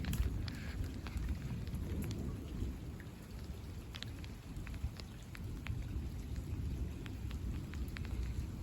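Thunderstorm rain falling, with scattered sharp drops clicking close by over a continuous low rumble.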